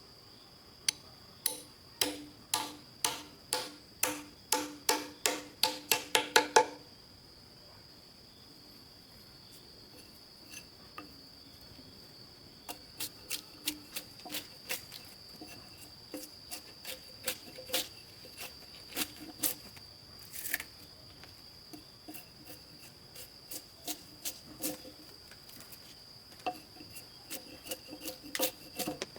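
Insects, crickets or similar, keep up a steady high-pitched drone. Over it, a quickening run of about fifteen ringing strikes, each louder than the last, stops abruptly about seven seconds in. Scattered sharp knocks follow through the rest.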